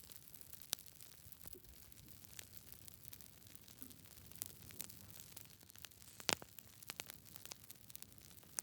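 Wood fire in a fireplace crackling: scattered sharp pops and snaps over a faint low hiss, the loudest pop about six seconds in.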